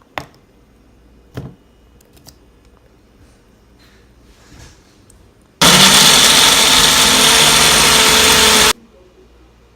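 Blender running for about three seconds, blending a protein smoothie with frozen fruit; it starts and stops suddenly. Two short knocks come a few seconds before it.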